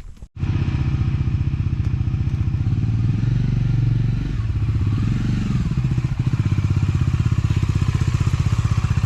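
A vehicle engine running steadily close by, with an even, rapid pulsing beat.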